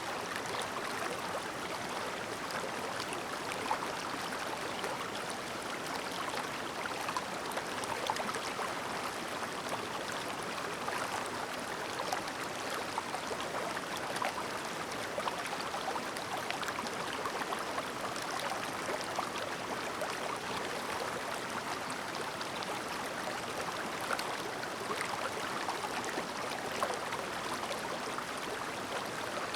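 Clear river babbling steadily, with many small quick splashes and trickles over the continuous rush of water.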